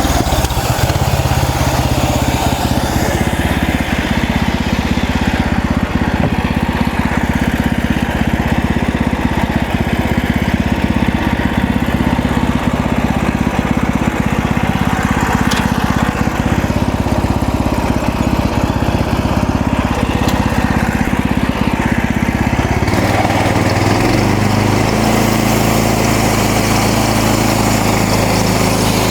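Gas engine of a MechMaxx portable band sawmill running steadily, its note shifting to a different steady pitch about three-quarters of the way through.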